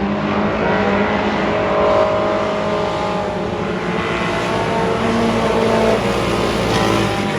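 Race car engines running hard on track, their pitch climbing and falling as the cars go through the gears and corners.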